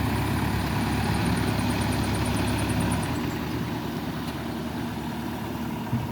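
Engine idling steadily, easing off and getting quieter about halfway through, with a short knock near the end.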